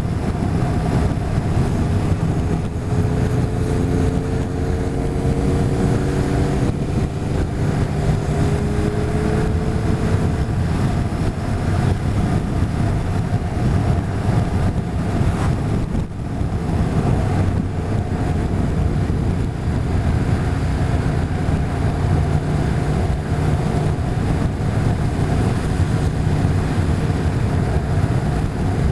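Motorcycle running at steady road speed, with wind rushing over the microphone. Between about three and ten seconds in, a fainter whine rises slowly in pitch.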